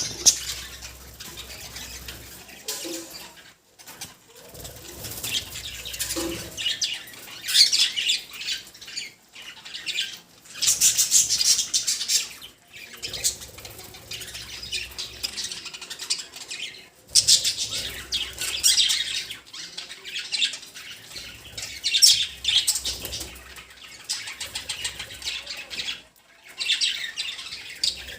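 Pet budgerigars chattering and chirping in a dense, warbling flock sound that comes in bursts of a few seconds with short pauses between them.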